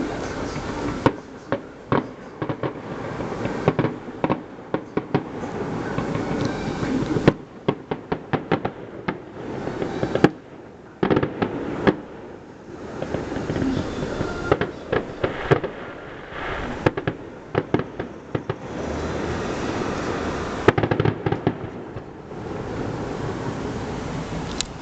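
Fireworks display going off: many sharp bangs and pops in quick clusters, with stretches of continuous crackling between them.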